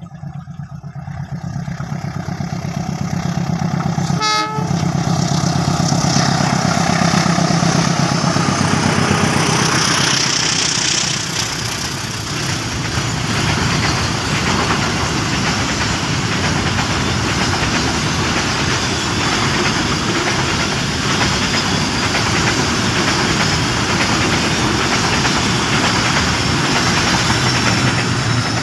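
A diesel-hauled container freight train passing at speed: the locomotive's engine drone grows over the first few seconds as it closes in, then the wagons' wheels keep up a loud, steady rumble and clatter on the rails.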